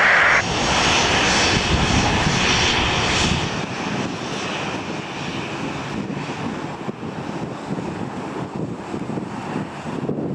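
Jet airliner engines rumbling with a high whine, fading after a few seconds into a steadier, fainter rumble. A loud hiss cuts off abruptly about half a second in.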